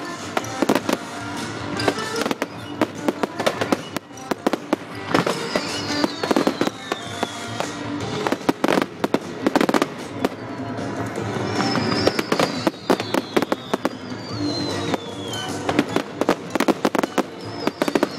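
Fireworks going off in quick succession: many sharp bangs and crackling bursts, with several falling whistles, over music playing.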